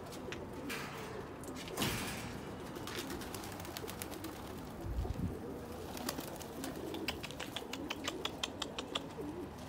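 Domestic pigeons cooing in a loft, with scattered sharp taps and clicks and a quick run of clicks in the second half.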